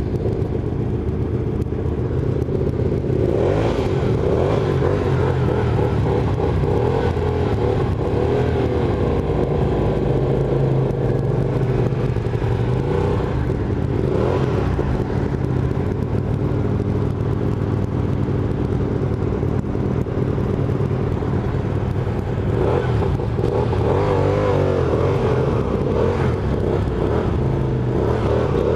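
Several motorcycle engines idling together at a standstill, with a few brief revs.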